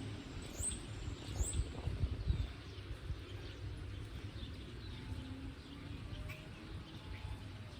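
Small birds chirping: three short, high, rising chirps in the first second and a half, then fainter scattered chirps. A few low thuds come between about one and two and a half seconds in.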